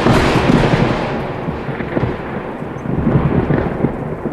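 Loud thunder rumbling and crackling after a sudden clap, slowly dying down, then swelling again about three seconds in before fading.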